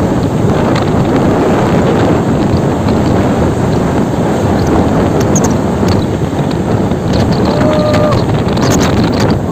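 Wind buffeting the microphone over the steady rumble of road traffic, with a brief pitched tone about eight seconds in.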